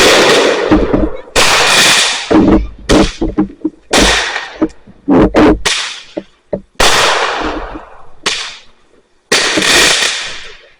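Fireworks going off: a rapid string of about eight sharp bangs. Each bang trails off in a fading crackle over a second or two.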